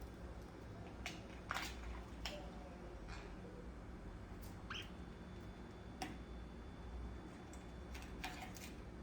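Pet parakeet making scattered short clicks and brief chirps, about eight in all, over a steady low hum.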